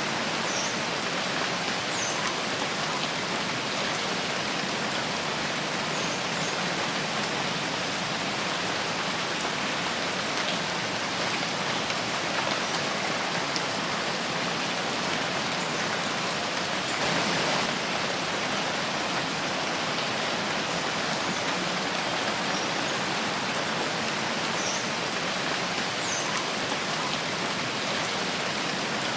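Steady rain falling in a forest, an even hiss of many drops, with a brief slightly louder spell about 17 seconds in.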